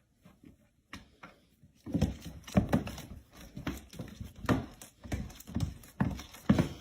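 A run of irregular knocks or taps in a small room, about two a second, starting about two seconds in after a near-quiet start with a few faint clicks.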